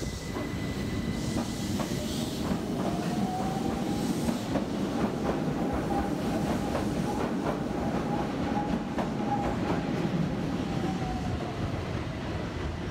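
Keihan Keishin Line electric train pulling away from the platform: a steady rumble with wheels clacking over rail joints and points. A thin electric motor whine rises a little about two seconds in, holds steady, and fades near the end as the train draws away.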